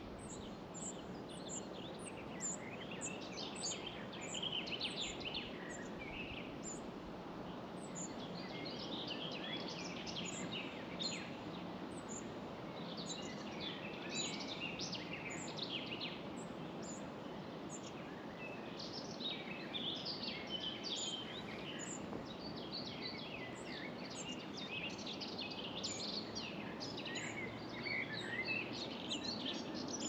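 Several songbirds singing and chirping over a steady low background hiss, with a thin high note repeated about twice a second through the first several seconds.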